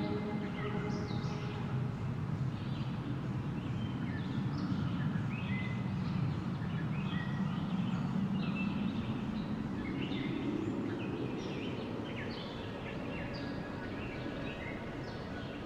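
Wind blowing in slow gusts, swelling and easing, with many small birds chirping and calling throughout.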